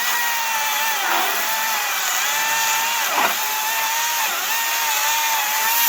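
Battery-powered electric chainsaw running at full speed and cutting into wood. Its steady high whine dips in pitch a few times as the chain bites into the cut, then stops at the end.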